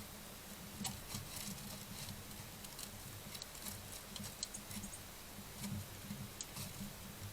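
Birds foraging in dry fallen leaves: irregular crunching and crackling rustles as they scratch and hop through the leaf litter.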